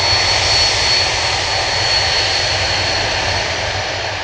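Airliner engines passing close: a loud rushing noise with a steady high whine, starting to fade near the end.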